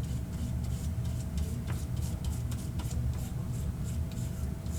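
Brush working matte medium over a paper card, heard as faint, irregular scratchy ticks over a steady low hum and a faint steady whine.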